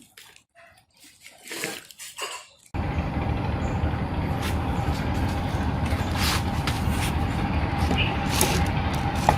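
A few faint clicks and scrapes, then a loud, steady machine noise with a constant whine starts abruptly just under three seconds in and runs on.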